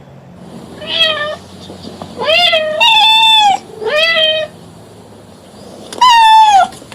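A cat meowing five times in quick succession. Each meow is a clear pitched call that rises and then falls, the last one coming about six seconds in after a short pause.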